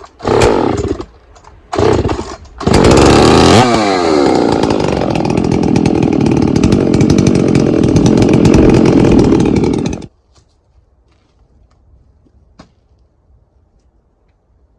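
Gas chainsaw: two short bursts, then it runs at high revs for about seven seconds, its pitch rising near the start, before cutting off suddenly. A few faint ticks follow.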